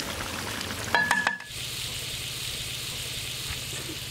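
Beef lung pieces sizzling in spiced oil and gravy in a large cooking pot as they are stirred with a long metal ladle. A few sharp metallic clanks ring out about a second in, then the sizzling runs on evenly over a low steady hum.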